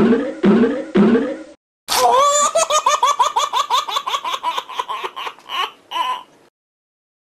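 Laughter, likely an added sound effect: three slow 'ha' syllables, then a long run of quick giggling that slows down and fades out near the end.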